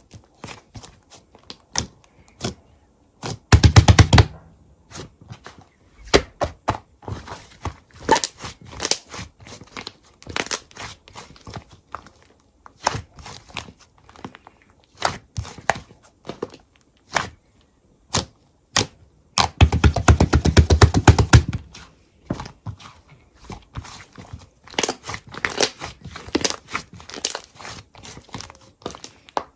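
Slime being handled: a run of sticky clicks and pops, with two louder bursts of rapid crackling about four seconds in and again about twenty seconds in.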